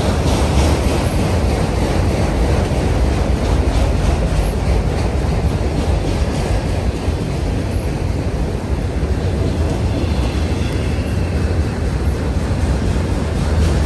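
Freight train of autorack cars rolling past: a steady rumble of steel wheels on the rails.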